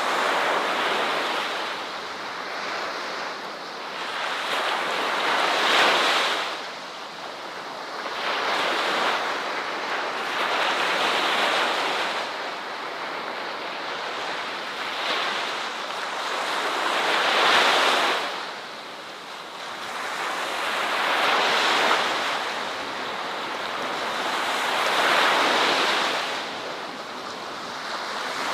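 Ocean surf: waves breaking and washing up a shore, each surge swelling and falling back every few seconds.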